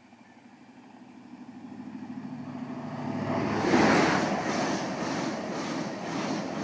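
High Speed Train (InterCity 125) with Class 43 power cars approaching and passing at speed, growing steadily louder to a peak about four seconds in. The sound then stays loud with a regular beat as the coaches go by.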